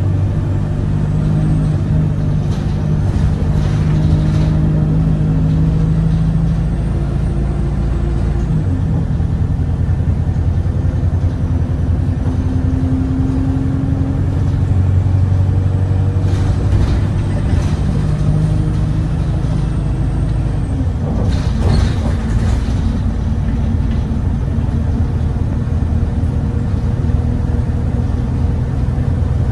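Cummins ISBe diesel engine of an Alexander Dennis Enviro 200 bus heard from inside the cabin as the bus drives, its note shifting a few times. A few brief hisses come through over the engine.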